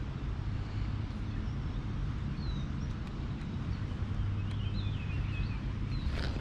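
Steady low outdoor background rumble, with faint bird chirps a little before the middle and again a couple of seconds later.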